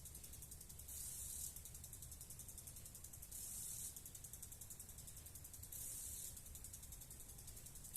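Faint background noise: a low steady rumble with a short high hiss that comes back about every two and a half seconds.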